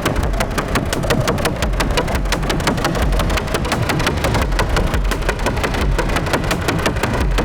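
Electronic synthesizer music: a buzzing, engine-like low synth drone under a fast, dense rapid-fire ticking rhythm from analog synths and a drum machine.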